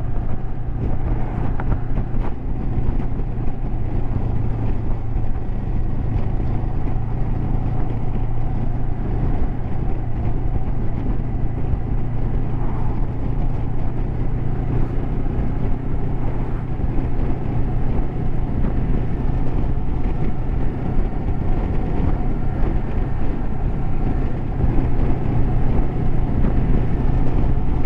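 Honda CB500X's parallel-twin engine running at a steady cruise, with a continuous rush of wind and road noise.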